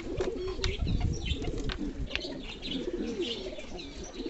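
Several domestic pigeons cooing at once, their low rolling calls overlapping, with higher chirping calls and a couple of sharp clicks mixed in.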